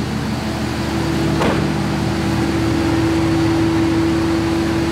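A car engine idling with a steady low hum, its pitch holding fixed, one tone growing a little louder about a second in, with a brief whoosh about a second and a half in.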